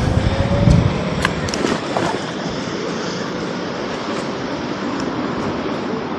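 City street traffic noise, a steady wash of passing vehicles. A heavy low rumble comes in the first second, and a few sharp clicks follow soon after.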